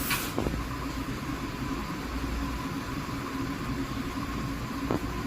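A few faint taps of a screwdriver against the plastic radiator hose adapter, about half a second in and again near the end, over a steady mechanical hum and hiss.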